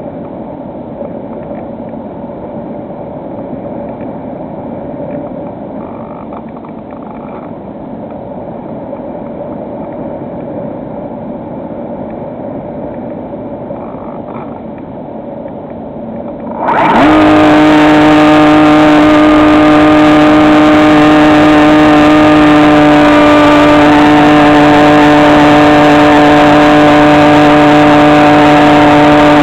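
Electric motor and propeller of a SkyEye FPV model plane: a dull, muffled rushing noise with a faint hum, then about 17 seconds in a quick rise to a very loud, steady whine that holds one pitch.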